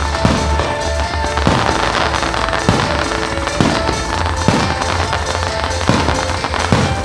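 Fireworks shells going off with sharp bangs roughly once a second, over the music played for the show.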